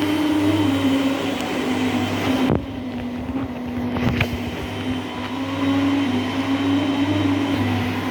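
Whirlpool washing machine on its spin cycle: the motor hums steadily under a drum rumble with a slowly wavering tone. About two and a half seconds in, the sound drops and turns duller, with a single click a little later.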